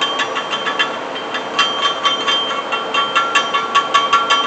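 A quick, uneven run of light metal-on-metal taps and clinks, several a second, each leaving a ringing tone that hangs over the run, with a short lull about a second in: steel being worked by hand.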